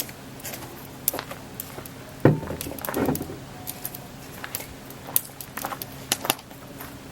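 Wood fire crackling in a stone fire pit, with sharp irregular pops and one louder dull thump about two seconds in.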